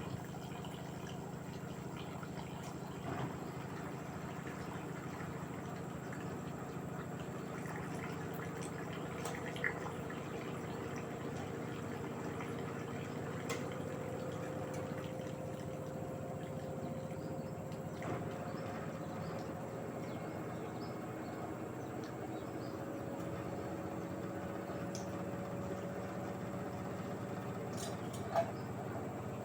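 LG direct-drive washing machine mid-cycle, with water running and sloshing in the drum over a steady hum. Faint tones slowly rise in pitch, and a few light clicks come through.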